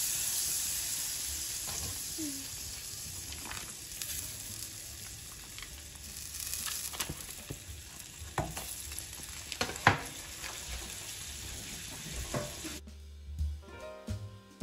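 Food sizzling in a hot pot while it is stirred, with a few sharp knocks of the utensil against the pot. Music cuts in near the end.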